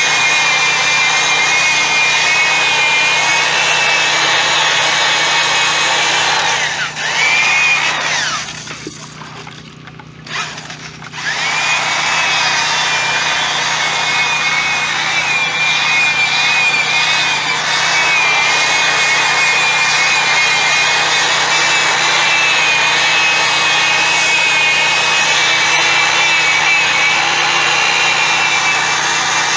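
An electric drill spinning a foam polishing pad against a plastic headlight lens: a steady motor whine with a rubbing hiss. It stops for about three seconds some eight seconds in, then starts up again and runs on.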